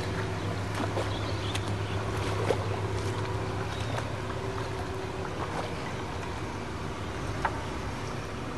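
An engine running steadily at a low, even pitch, easing slightly in level about halfway through, with scattered light clicks and knocks over it.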